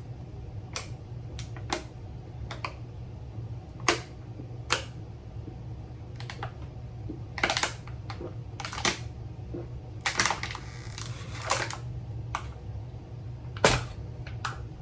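Irregular sharp clicks and cracks of crawfish shells being cracked and peeled by hand, over a steady low hum.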